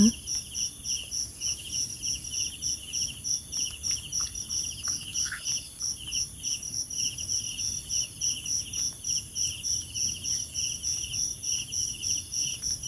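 Night insects chirping in a steady pulsing rhythm, about two pulses a second, over a constant high-pitched insect whine.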